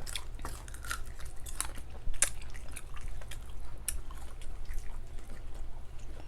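Close-miked chewing and biting of fried daing na bangus (marinated milkfish), with irregular small crunches and wet mouth clicks.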